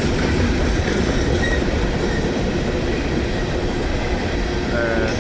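Freight cars of a unit train rolling past on the rails: a steady rumble of wheels and trucks with some faint clickety-clack.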